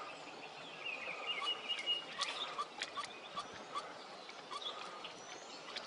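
Young pileated woodpeckers making faint, short calls over and over at uneven intervals, with a few sharp ticks among them. The uploader takes these for the two chicks begging for food or calling to each other.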